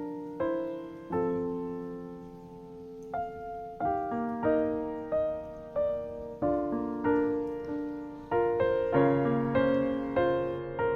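Background music of a solo piano playing slow, gentle chords and melody notes, each struck and left to fade. There is a brief lull about two seconds in before the notes pick up again.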